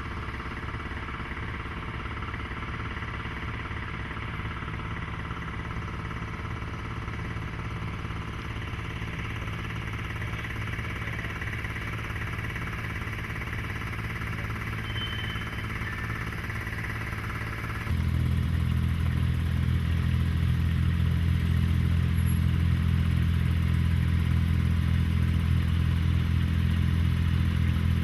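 A small engine running steadily. About two-thirds of the way through it turns abruptly louder, with a much stronger low hum.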